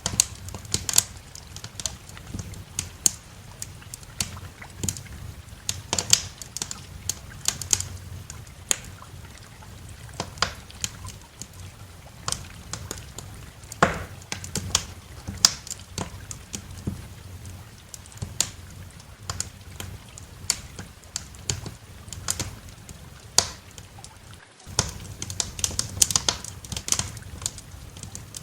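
Wood fire crackling, with irregular sharp pops and snaps, some close together and some spaced out, over a steady low rumble.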